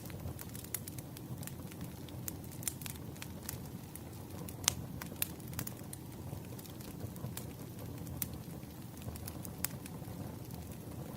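Wood fire crackling: irregular sharp pops and snaps over a steady low rumble, with the loudest pop about halfway through.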